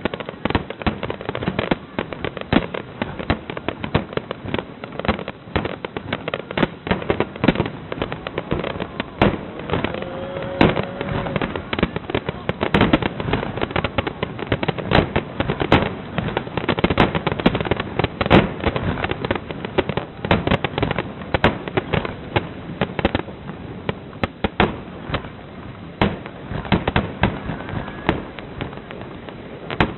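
A fireworks display finale: many bursts going off in quick succession, several a second, overlapping one another without a break.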